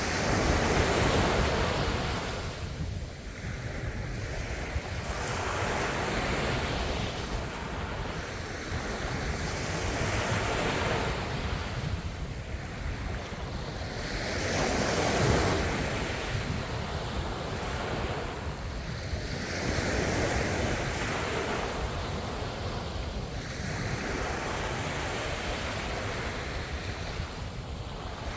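Ocean waves breaking and washing ashore, a steady surf noise that swells and eases in repeated surges every few seconds, with wind on the microphone.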